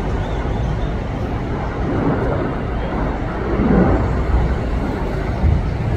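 Steady low engine rumble, with a few louder swells.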